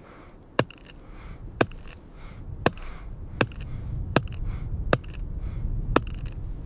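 Axe striking wood in steady chops, seven strikes about a second apart, over a low rumble that builds louder.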